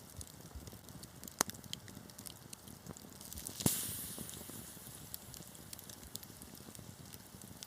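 Wood fire crackling in a fireplace, with scattered sharp pops. A loud pop comes about three and a half seconds in, followed by a short fading hiss.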